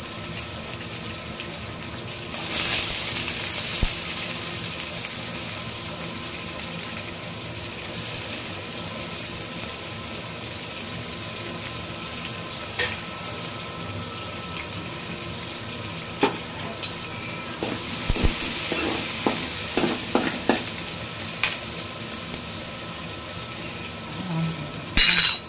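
Garlic, dried red chillies and chopped onions sizzling in oil in an aluminium kadai, the sizzle jumping louder about two and a half seconds in as the onions go in. In the second half a spoon stirs them with a run of sharp clicks and scrapes against the pan.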